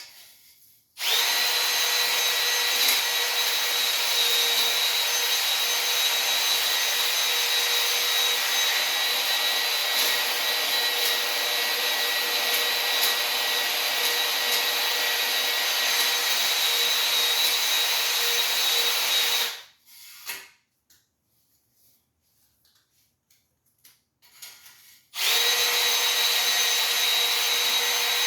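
Electric drill spinning a cylinder hone in the bores of a Ford 289 V8 block, a steady whine. It stops for about five seconds, then starts again near the end.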